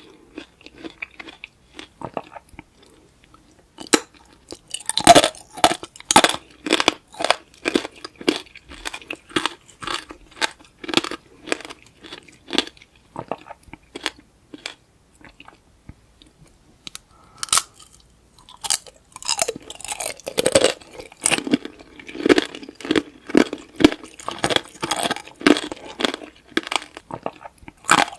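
Close-miked crunching and chewing of tanghulu, the hard candied sugar shell cracking between the teeth with juicy fruit inside. Two long runs of rapid crunches, with a quieter pause in the middle.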